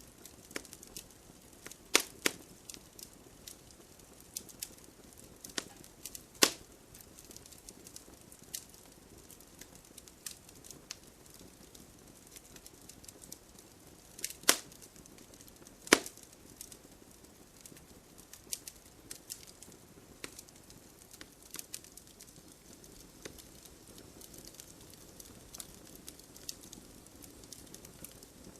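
Campfire wood crackling steadily with scattered sharp pops, four of them much louder than the rest, over a faint low hiss of the fire.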